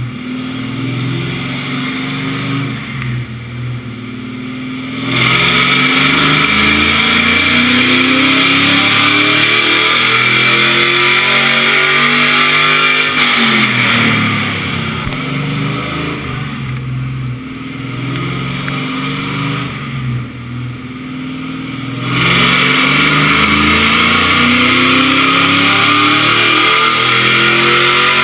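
Fourth-generation Camaro's LS1 5.7-litre V8 with headers making two wide-open-throttle pulls on a chassis dyno, untuned after a bigger intake and throttle body were fitted. It runs at light throttle at first, goes to full throttle about five seconds in with the pitch climbing steadily for about eight seconds, lifts off and coasts down, then starts a second pull near the end, still climbing when it ends.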